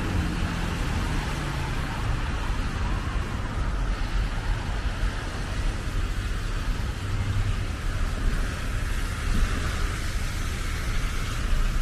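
Steady road traffic noise: passing cars with the hiss of tyres on a wet, snowy street.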